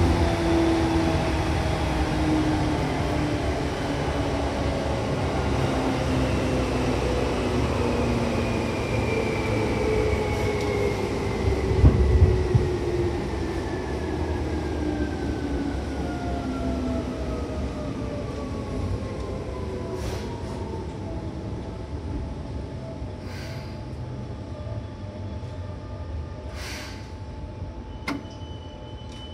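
Seibu 2000 series electric train running and slowing down: its motor whine falls steadily in pitch over the rumble of wheels on rail, with a loud knock about twelve seconds in. It grows quieter toward the end, with a few light clicks.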